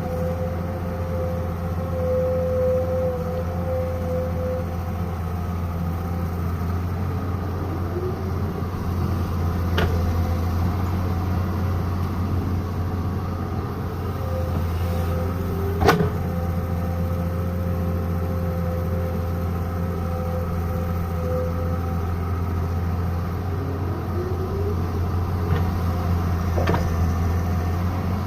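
Excavator's diesel engine running steadily with a low hum and a higher whine, twice briefly rising in pitch. Three sharp knocks stand out, the loudest about halfway through.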